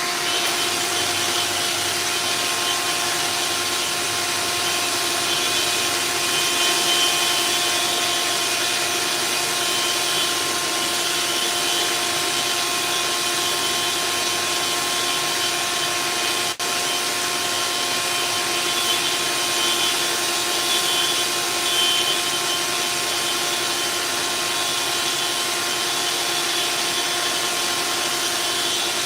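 Electric power sander running steadily against a steel boat hull's epoxy fairing compound, a constant motor hum with a hiss of abrasion.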